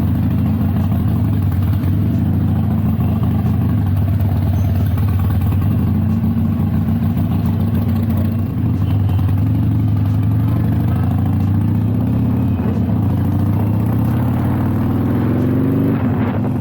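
Harley-Davidson Iron 883's air-cooled V-twin running through Rinehart slip-on exhausts while riding. Its pitch climbs over the last few seconds as it accelerates, then drops off sharply at the very end.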